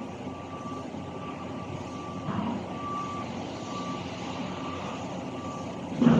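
A vehicle's reversing alarm beeping, a steady mid-pitched tone in long beeps with short gaps, over workshop background noise. There is a short knock about two seconds in and a louder one near the end.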